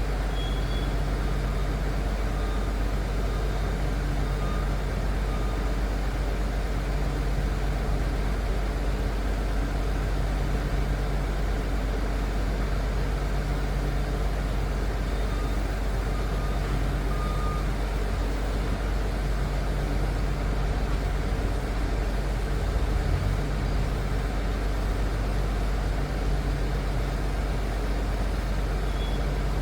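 Liebherr PR 746 crawler dozer's diesel engine running steadily, a deep drone with a lower engine tone that comes and goes every few seconds as it works.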